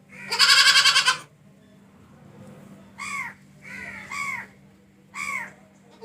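Goat bleating: one long, loud, wavering bleat, then four short calls that fall in pitch, with another loud bleat starting right at the end. A faint steady hum runs underneath.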